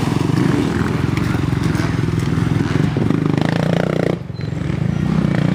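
Off-road dirt bike engine revving hard, its exhaust note dropping off briefly a little past four seconds and then picking up again.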